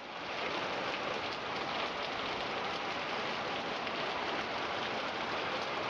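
Heavy rain pouring down steadily: a dense, even hiss of a downpour.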